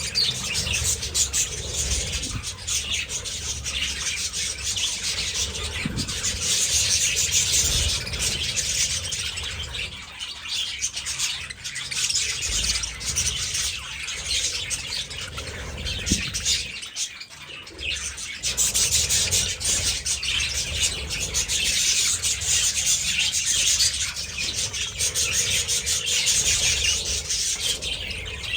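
A flock of budgerigars chattering and chirping continuously, many birds calling at once, with a brief lull about ten seconds in and again around seventeen seconds.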